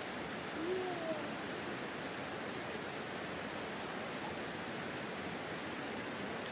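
Campfire burning with a steady rushing hiss. About a second in comes a short faint call that rises then falls.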